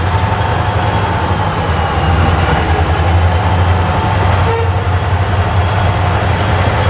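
Train running by with a steady low rumble and a faint steady tone over the first few seconds.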